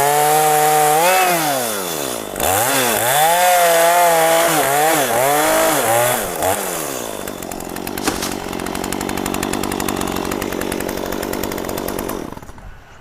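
Two-stroke chainsaw cutting mahogany, its engine pitch dipping and recovering again and again as the chain bites into the wood. About seven seconds in it drops to a lower, steady idle, then falls away near the end.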